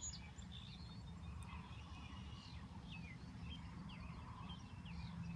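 Faint outdoor ambience: scattered short, high bird chirps over a low steady rumble.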